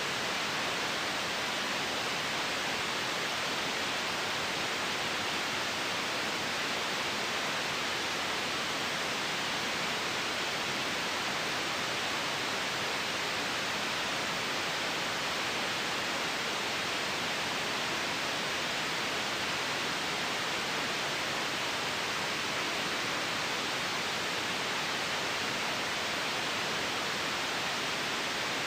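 Continuous white noise: a bright, steady hiss that does not change.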